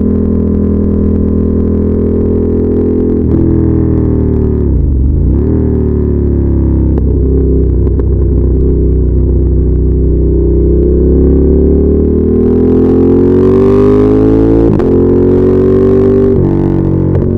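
Ducati Monster 1200 S's L-twin engine and exhaust under way. The revs drop sharply and pick back up about five seconds in, then climb steadily under acceleration, broken twice near the end by quick gear changes.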